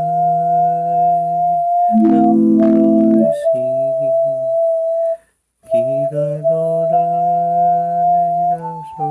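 Electronic keyboard playing a slow tune in long held notes, a melody over sustained lower notes, with a short break about five seconds in.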